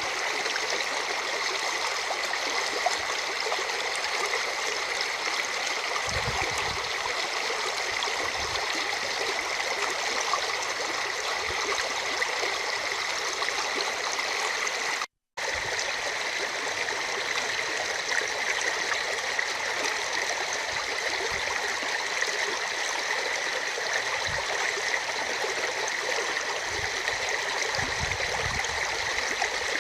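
Steady rushing of a river, swollen after heavy rain, with a few soft low bumps; the sound cuts out for a split second about halfway.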